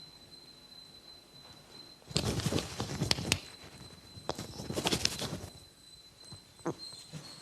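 Two bursts of rustling, scuffing and knocking from people moving about, about two seconds in and again near the middle, with a single knock later. A faint steady high-pitched tone runs underneath.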